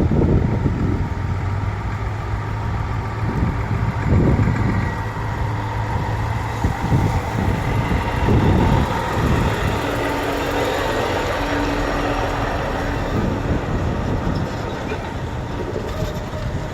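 Heavy trucks' diesel engines running as the trucks drive past, the sound swelling several times as they go by.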